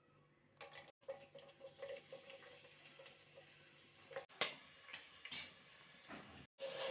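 Kitchen preparation sounds: a run of light clicks, taps and clinks of utensils or containers, with some water splashing.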